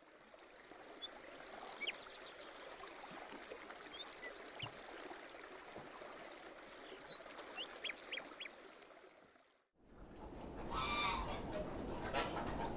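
Outdoor ambience with scattered bird chirps and a brief rapid trill. After a short break about ten seconds in, domestic geese start honking, louder than the chirps.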